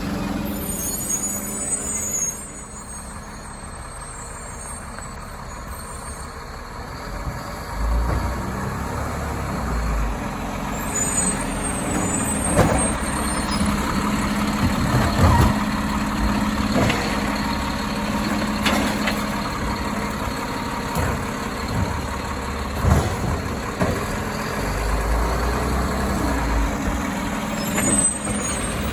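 An Autocar ACX garbage truck with a Labrie Automizer automated side-loader body is running with a steady engine hum while it collects recycling. Bursts of air hiss and a series of sharp metallic knocks and clanks come from the truck's mechanism, mostly in the middle of the stretch, with deeper rumbles twice.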